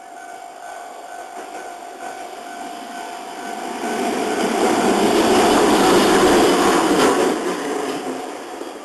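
An Iyotetsu train passes over the level crossing. Its running noise swells over a few seconds, is loudest past the middle with a sharp clack of the wheels, and fades near the end. At the start a crossing warning bell rings steadily under it.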